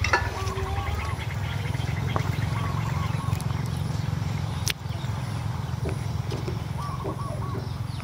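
A few short, faint bird chirps, the kind of calls made by the society finches kept with this nest, over a loud, steady low rumble with a fast flutter, and one sharp click about halfway through.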